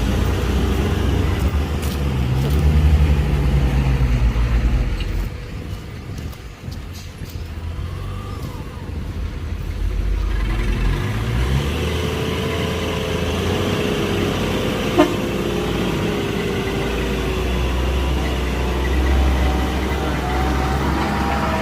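Heavy diesel engines of earthmoving machines at work, a bulldozer and dump trucks. One engine revs up and down in the first few seconds, drops away, and from about halfway a steady engine runs with a held tone. A single sharp click comes about two-thirds through.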